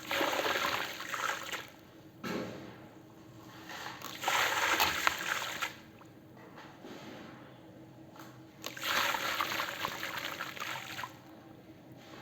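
Cement and concrete being poured, in three separate pours of a second or two each, with quieter pauses between.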